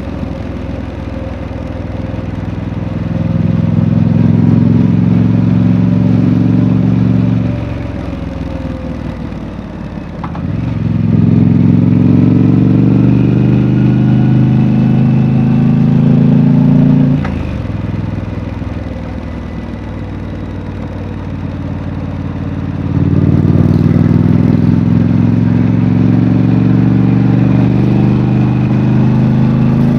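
Triumph Street Scrambler's 900 cc parallel-twin engine on its stock exhaust, pulling hard three times with the pitch slowly rising and breaking off sharply at gear changes, easing off to a lower, quieter note in between.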